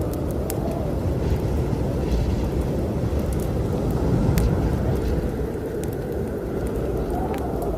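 Strong winter storm wind blowing with a deep, steady rumble and a faint whistle that rises and falls twice, over scattered sharp pops and crackles of a wood fire burning in a fireplace.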